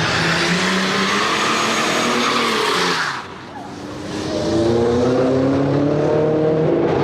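Sports car exhaust at high revs that cuts off suddenly about three seconds in; after a brief lull, a car engine climbs steadily in pitch as it accelerates.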